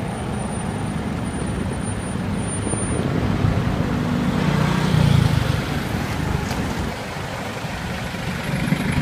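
Wind buffeting the microphone while riding a bicycle: a steady low rumble that swells about halfway through, then eases off.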